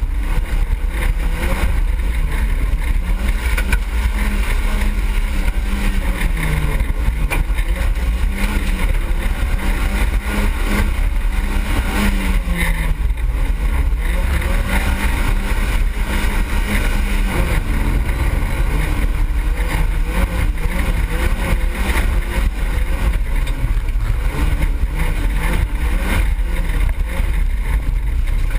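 Autocross car's engine heard from inside the cabin, running hard under racing load, its pitch rising and falling repeatedly with the throttle, over a heavy low rumble.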